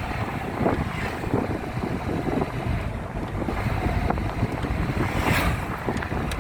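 Wind buffeting the microphone over the rumble of a moving vehicle, with a brief louder hiss about five seconds in.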